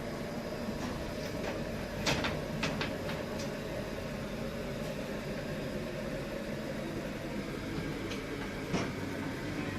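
Railway station ambience: a steady low hum and rumble with scattered sharp clicks and knocks, a cluster about two to three seconds in and another near the end.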